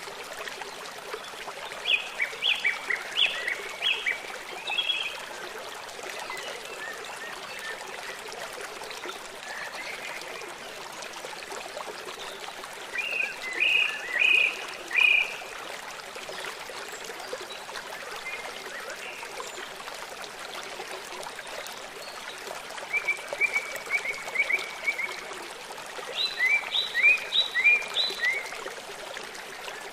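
River water running in a steady rush, with a songbird singing short bursts of quick high notes four times: about two seconds in, around the middle, and twice near the end, the third a fast even trill.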